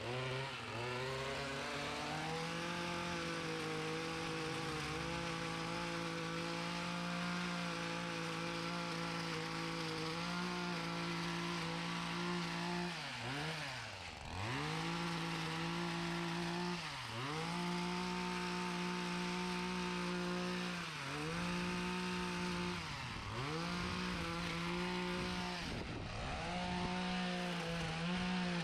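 Small gasoline engine of lawn equipment running at high speed. Several times the engine note drops briefly and climbs back up.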